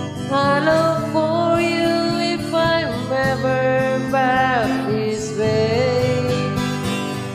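Country-folk song: a voice sings long held notes that slide up and down in pitch, over acoustic guitar accompaniment.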